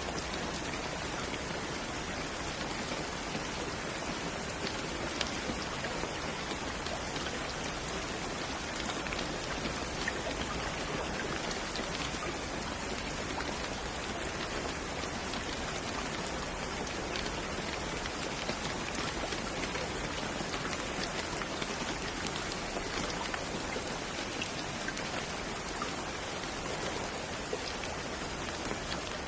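Steady rain falling, with the patter of many small drops hitting a surface.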